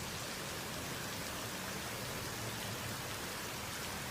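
Heavy rain from a storm falling steadily, an even wash of rain noise.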